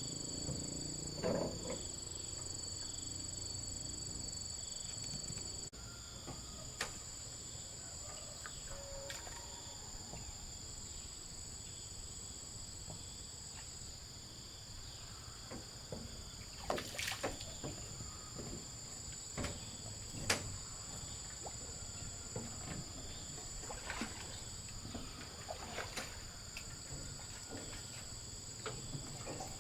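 Steady high-pitched chorus of insects, with scattered short sharp clicks and knocks; one of the high insect tones stops abruptly about six seconds in.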